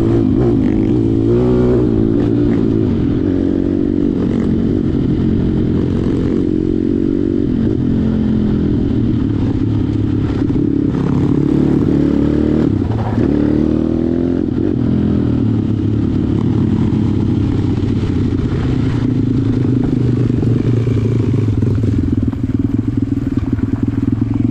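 Malcor XM 160 pit bike's engine running hard at high revs, its pitch rising and dipping again and again as the throttle is worked, then cutting off suddenly at the end.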